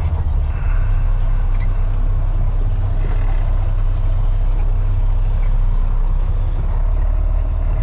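Freightliner FLD dump truck's diesel engine running steadily, heard from inside the cab as a low rumble.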